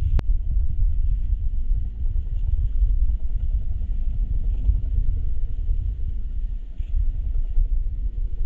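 Loud, low, uneven rumble of wind buffeting the microphone, with one sharp click just after the start.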